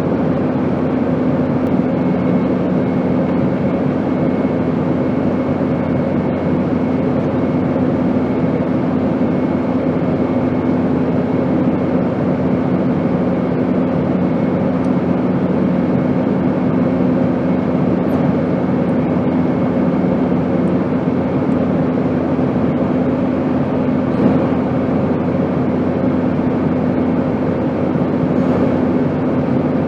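Airplane noise: a steady, even rush with a constant low hum from the engines, unchanging throughout. One lower hum fades out about two-thirds of the way through.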